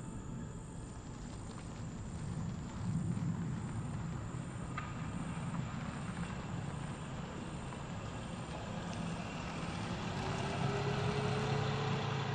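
Vehicle engine and road noise, a steady low drone that swells about three seconds in and again near the end.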